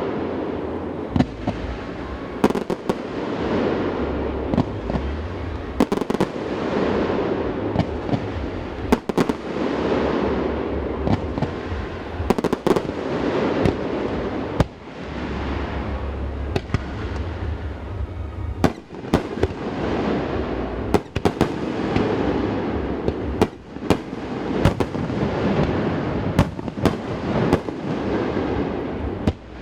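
Aerial fireworks display: many sharp shell bursts and crackling reports, some in rapid clusters, over a continuous rumble of bangs echoing back from the surrounding mountain valley.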